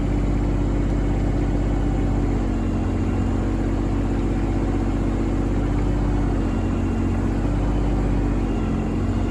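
John Deere 2210 compact tractor's three-cylinder diesel engine running steadily under load, its pitch shifting slightly a couple of times as it holds up a heavy load on the pallet forks.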